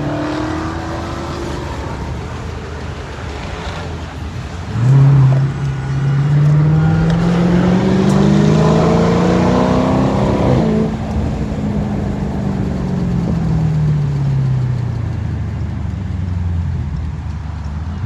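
Car engine accelerating hard: about five seconds in its note jumps up and climbs steadily in pitch for about five seconds, then falls slowly as it backs off.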